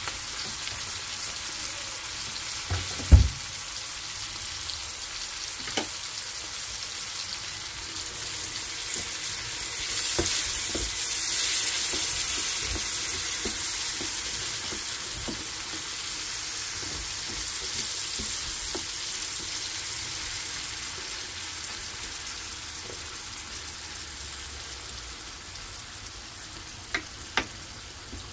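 Chopped vegetables and crushed tomato sizzling in oil in an enamelled steel paella pan: a steady crackling hiss that swells for a few seconds in the middle as a wooden spoon stirs them. A thump about three seconds in and two sharp knocks near the end.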